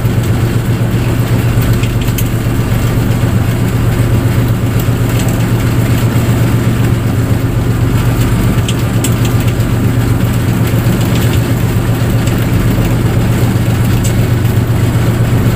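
Fishing boat's engine running steadily at an even speed, a constant low hum that does not rise or fall.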